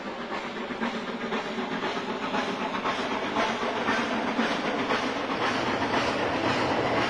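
Steam-hauled passenger train approaching across a long steel girder bridge, its rumble and rhythmic clatter growing steadily louder.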